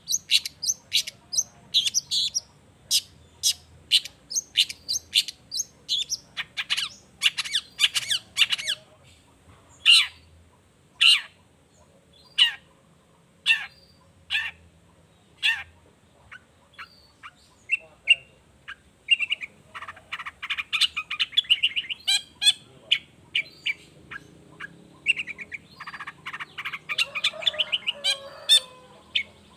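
Long-tailed shrike (cendet) singing: a fast series of short, sharp, harsh notes, thinning out midway, then breaking into longer chattering runs near the end.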